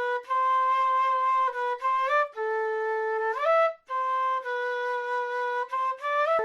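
South American flute playing a slow unaccompanied melody: long held notes broken by short breath pauses. Twice the note slides upward into a higher one, about two seconds in and again around three and a half seconds.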